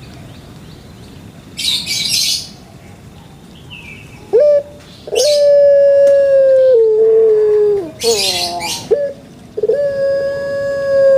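A bird calling in its morning song: three long, clear, low notes, each dropping a step in pitch near its end, alternating with short harsh rasping bursts.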